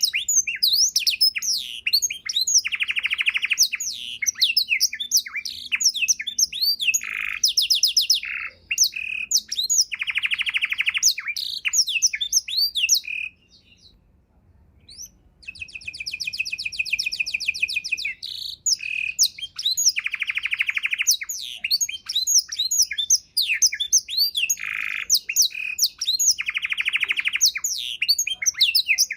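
Domestic canary singing a long, fast song of sweeping chirps broken by rapid rolling trills, a song rich in learned 'isian' phrases. It pauses for about two seconds midway, then carries on.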